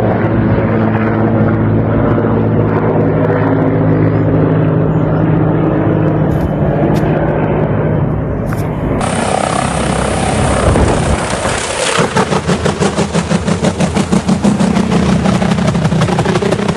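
Helicopter engine and rotor running, first as a steady hum, then after an abrupt change a rapid, even chopping of the rotor blades from about twelve seconds in.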